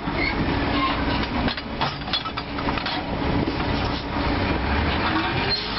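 Continuous clattering, rattling mechanical noise, with many irregular clicks and knocks.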